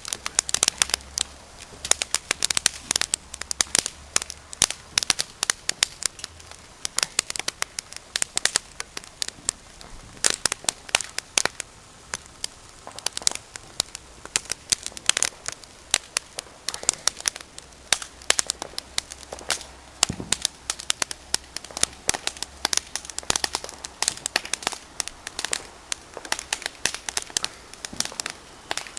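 A large bonfire crackling, with a dense, continuous run of sharp snaps and pops.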